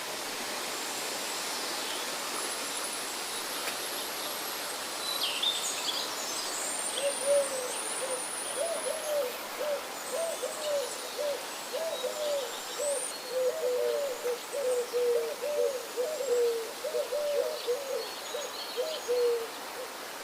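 A bird calling in a long, quick run of short, low notes from about a third of the way in until near the end. Thin, high chirps of smaller birds sound over the first half, and a steady hiss runs underneath throughout.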